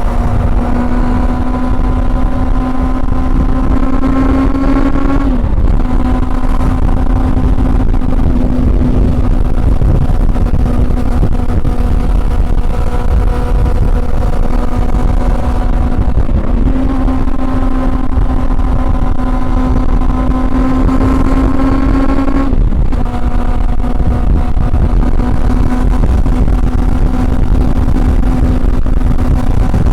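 Honda CB400 Super Four's inline-four engine pulling under way, its note creeping slowly upward. Two brief breaks for gear changes, about five seconds in and again about 22 seconds in, each followed by a slightly lower note.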